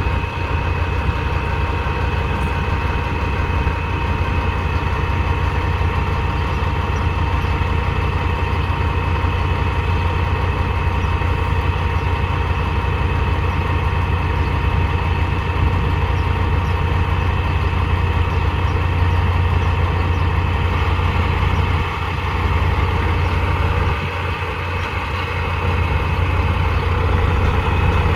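Heavy engine of a working vehicle running steadily at idle, with a deep rumble and a thin steady whine above it. It dips briefly twice near the end.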